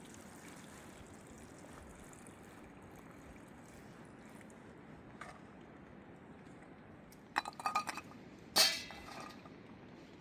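Glass or metal dishes clinking: a quick run of small ringing clinks about seven seconds in, then one louder clink that rings on briefly, over a faint steady hiss.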